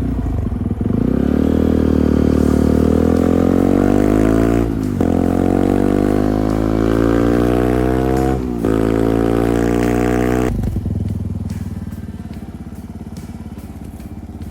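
Beta 125 motorcycle engine accelerating hard through the gears, its note climbing three times with short breaks at two gear changes. About ten seconds in the throttle closes, and it falls to a quieter, rougher run while coasting.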